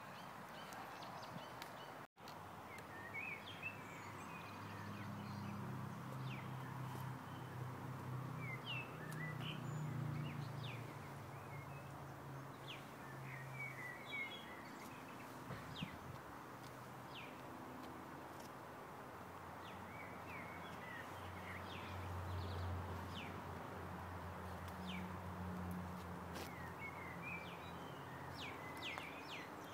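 Birds chirping in short, scattered calls over a faint, steady outdoor background hiss. A low hum swells and fades twice, around the first third and again near the end.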